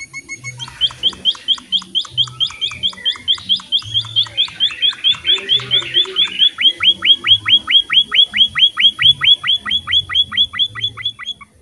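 A small finch of the munia (emprit) kind calling in a long, fast, even series of sharp down-slurred chirps, about five a second, that grows louder and slightly quicker through the second half and stops shortly before the end.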